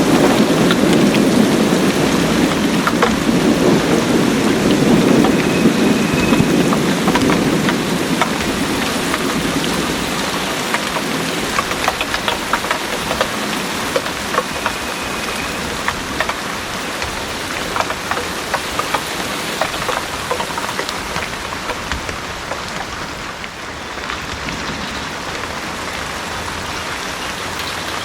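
Heavy rain pouring steadily, with scattered drops ticking on hard surfaces. A low rumble of thunder fades away over the first ten seconds or so.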